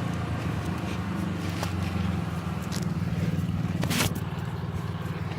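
A motor vehicle's engine running steadily, its pitch shifting slightly a couple of times. A single sharp click or knock about four seconds in.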